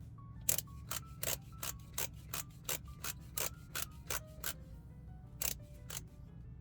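Torque wrench being set to 54 foot-pounds: a run of short, even clicks, about three a second, with a brief pause near five seconds. Background music plays underneath.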